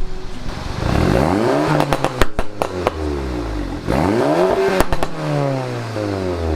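Volkswagen Mk7 GTI's turbocharged 2.0-litre four-cylinder revved twice from idle through a catless downpipe, each rev rising and falling back. Sharp pops and crackles come on the overrun, from its EQT Stage 2 tune.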